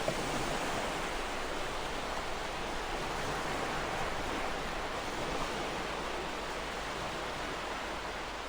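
Ocean surf washing onto a shore: a steady, even hiss of waves with gentle swells in level and no single crash standing out.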